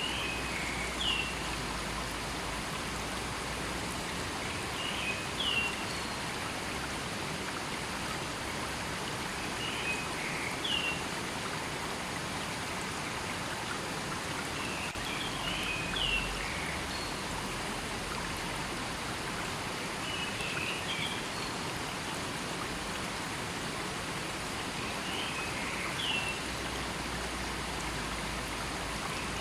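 River water flowing steadily, with a bird's short chirping call repeating about every five seconds.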